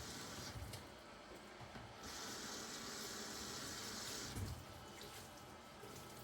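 Water running from a tap into a sink in two runs: it stops about half a second in, runs again for about two seconds, and ends with a short knock as it shuts off.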